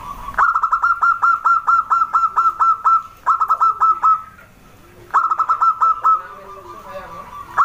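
Zebra dove (perkutut) calling in rapid runs of short, clipped, evenly spaced notes. Three runs are broken by brief pauses, and a fourth starts near the end. Fainter, lower cooing notes sound beneath.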